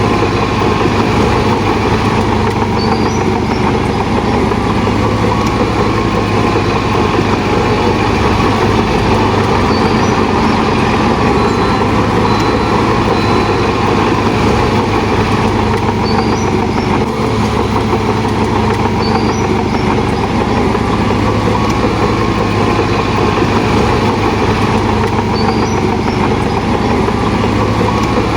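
Heavy diesel earthmoving machinery running steadily with a constant low engine note, with faint short high chirps every few seconds.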